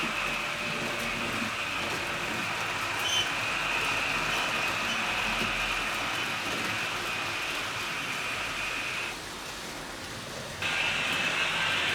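HO scale model train running on the layout track: a steady whirring from the motor and wheels on the rails. The higher part of the sound drops away for about a second and a half near the end, then returns.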